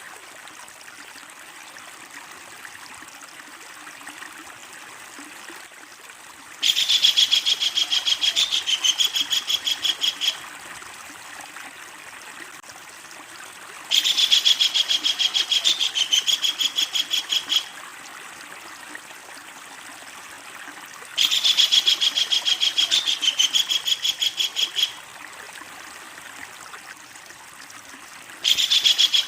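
Kingfisher giving its long, loud rattling call: a rapid run of harsh repeated notes lasting about three and a half seconds, given four times at roughly seven-second intervals, the first about seven seconds in. A steady soft hiss fills the gaps between calls.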